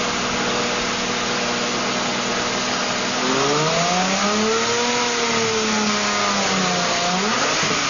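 Lamborghini Murciélago V12 engine idling with a steady even drone, then revved about three seconds in, the pitch climbing smoothly and falling back toward idle about seven seconds in.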